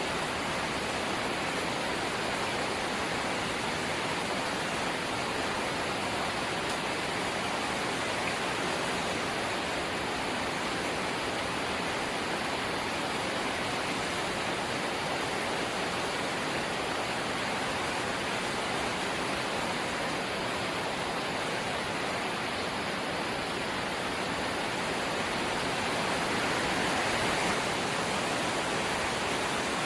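Light rain falling steadily, an even hiss that swells slightly near the end.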